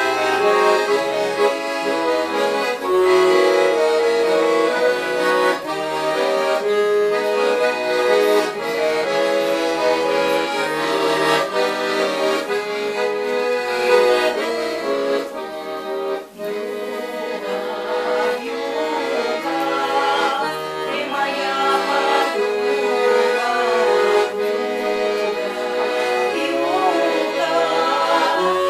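Accordion playing a melody over sustained chords, with no singing.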